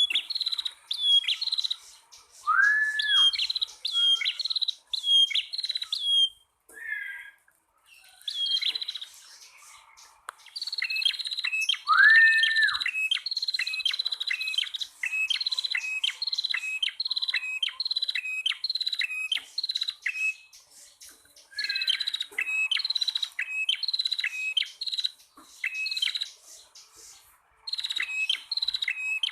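Prenjak tamu (prinia), male and female, calling together: fast runs of sharp, high, repeated chirps in bursts of a few seconds, with two lower, longer arched whistles, one about three seconds in and one about twelve seconds in, and a short lull before the second.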